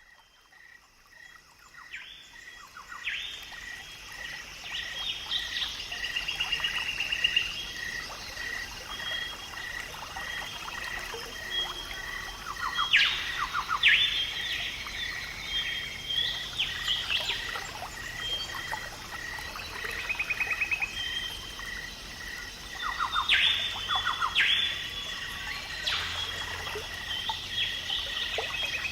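Birds calling and chirping, with varied trills and whistles, over a high peep that repeats evenly about twice a second. It all fades in over the first few seconds.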